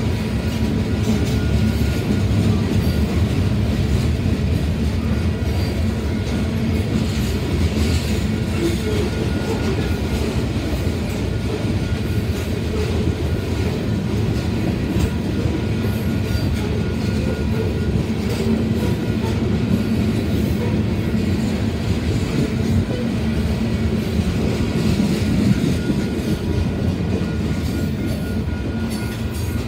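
Freight train of covered hopper cars rolling past, a steady loud rumble of steel wheels on the rails.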